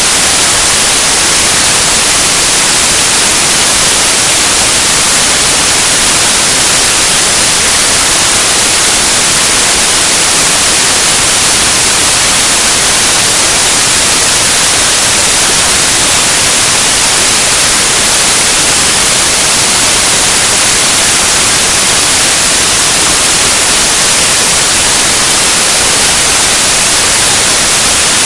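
Loud, steady hiss of static, like white noise, unchanging throughout, with no engine or other distinct sound standing out.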